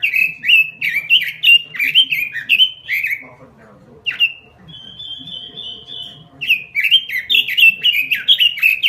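Pekin robin (red-billed leiothrix) singing a fast run of loud, falling whistled notes. The song breaks off about three seconds in, leaving a single note and a short high trill, then the run starts again about six and a half seconds in.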